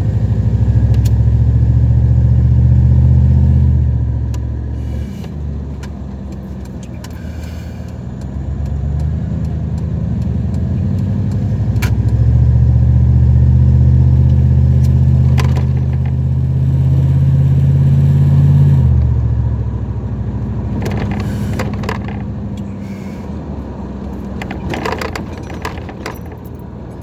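Dodge Ram 1500 pickup truck's engine and road drone while driving, a low steady hum that swells twice as the truck pulls harder and eases off in between. A few light clicks and rattles come near the end.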